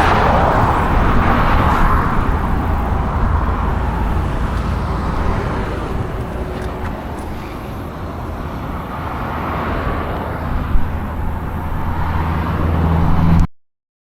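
Low rumbling wind and road noise from riding a bike, with the rush of passing traffic swelling at the start and again about ten seconds in. The sound cuts off abruptly about half a second before the end.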